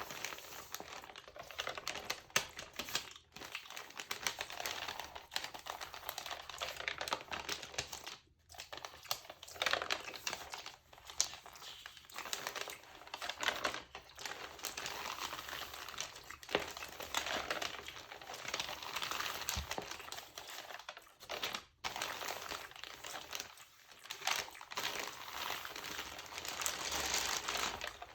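Textured magazine pages being crinkled close to the microphone, a dense run of fine crackles and clicks broken by a few brief pauses.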